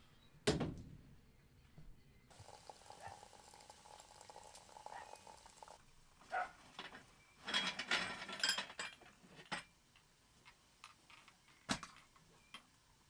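Knocks and clatter of dishes and utensils being handled, with a sharp knock about half a second in and a busier burst of clattering about two-thirds of the way through. A steady hiss runs for about three seconds in between.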